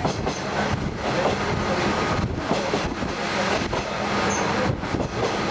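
Ride noise aboard a diesel railcar in motion: a steady rumble of wheels on rail and a steady engine hum, with irregular knocks and rattles from the track.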